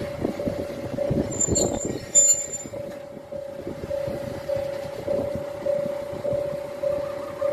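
Diesel railcar at a station stop, its engine and wheels giving a low uneven rumble with knocks, and a brief high squeal about one and a half seconds in. A steady electronic bell tone pulses about twice a second throughout.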